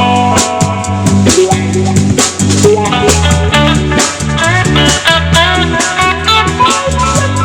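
Live band playing an instrumental passage without singing, with steady drum strokes under sustained pitched notes.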